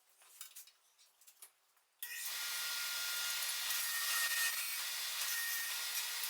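A power-driven wire wheel scrubbing loose rust and black paint off a motorcycle exhaust header's steel flange. It starts suddenly about two seconds in, runs steadily for about four seconds and stops abruptly near the end, after a couple of seconds of small handling clicks.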